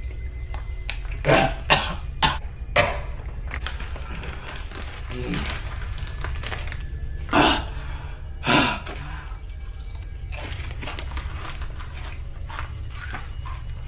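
A person coughing and clearing their throat from the burn of ghost pepper chips: a quick run of short coughs about a second in, then two stronger coughs near the middle, over a steady low hum.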